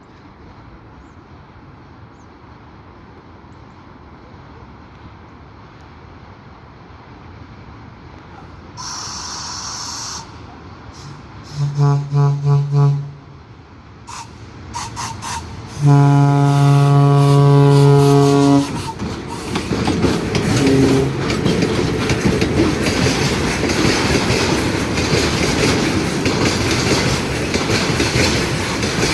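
An approaching train, most likely an electric locomotive, sounds its low two-note horn: a few short toots, then one long blast lasting about three seconds. It then passes close by at speed, with the loud rumble of wheels clattering over the rail joints. A brief hissing burst comes about nine seconds in.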